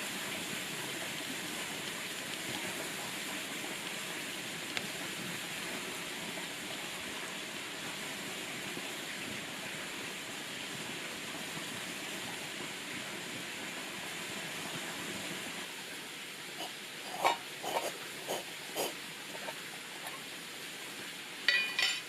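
A steady hissing noise, then a handful of sharp knocks and, near the end, a short clatter of bright clinks.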